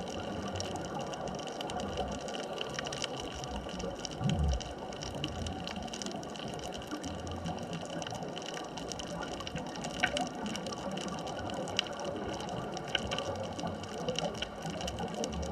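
Underwater ambient sound on a deep artificial reef: a steady wash of noise with scattered sharp clicks, and a brief low thump about four seconds in.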